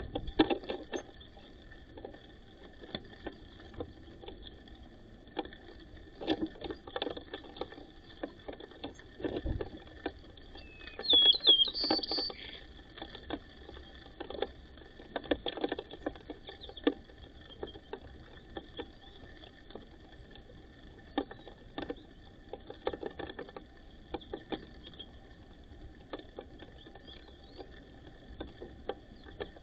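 White-crowned sparrows pecking and scratching at seed: an irregular scatter of light taps, with one brief chirp about eleven seconds in.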